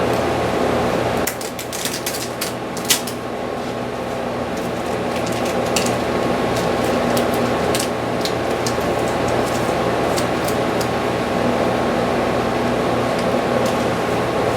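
Steady mechanical hum and hiss of shop machinery, like a fan or air conditioner. Over it come light crackles and ticks of masking tape being handled and pressed down, a cluster about a second in, then scattered.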